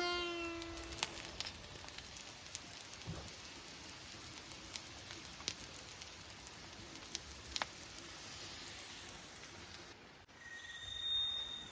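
Steady rain hiss with scattered sharp drips and ticks. Near the end, after a brief drop-off, a short high steady tone sounds.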